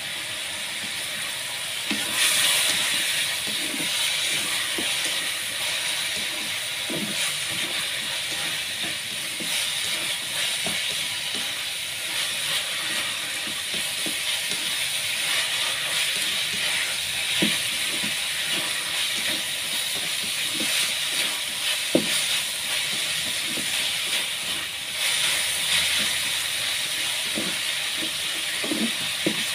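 Sliced bitter gourd stir-frying in hot oil: a steady sizzle that grows louder about two seconds in, with scattered light knocks.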